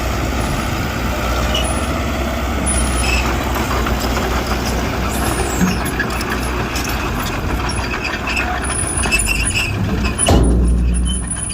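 Diesel engine of heavy earthmoving machinery running steadily, with a sudden louder surge and clunk about ten seconds in.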